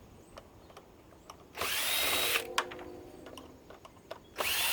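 Power drill running in two short bursts of under a second each, its motor whine rising as it spins up, with small clicks between: screws being driven out of the air purifier's casing.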